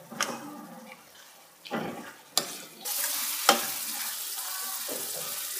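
Beef liver frying in a karahi and being stirred with a metal spoon. A few knocks and scrapes of the spoon against the pan come first, then from about three seconds in a steady sizzle of frying.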